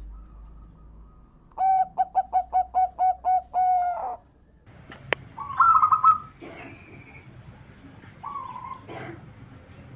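Zebra dove (perkutut) cooing: a quick, even run of about nine notes, followed by shorter, higher calls. There is a sharp click about five seconds in.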